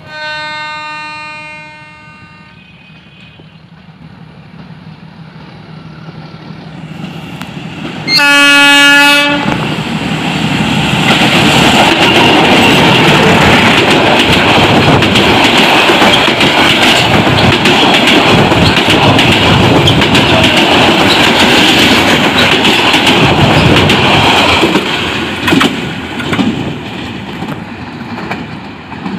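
Bangladesh Railway passenger train approaching: its locomotive horn sounds for about two seconds, then a louder blast about eight seconds in as it nears. The train then passes close by, a loud steady run of wheel and coach noise with many sharp clicks over the rails for about fifteen seconds, fading as it moves away.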